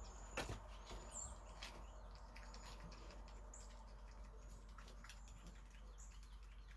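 Small birds giving faint, thin, very high-pitched calls, about one a second, with a sharp click about half a second in.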